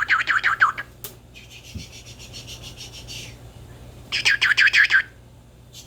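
African grey parrot chirping in two quick rapid-fire runs of short rising notes, about ten a second: one ends under a second in, the other comes about four seconds in. Between them there is a softer scratchy hiss.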